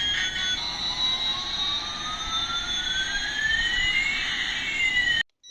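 Electronic jet-engine sound effect: a steady rushing noise with one whistling tone gliding up and another gliding down until they cross, cutting off suddenly near the end.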